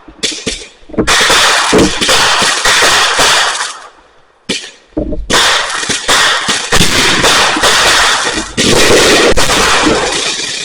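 Fireworks going off in rapid volleys of bangs and crackling. There are two long barrages with a short lull of about a second between them, and the bangs fade out near the end.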